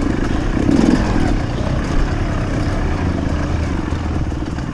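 Off-road motorcycle engine running steadily under way.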